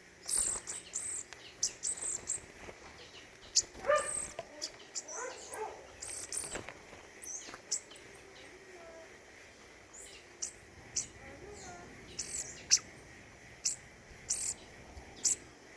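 Small forest songbirds calling: many short, very high chirps scattered irregularly throughout, with a lower-pitched call about four to five seconds in.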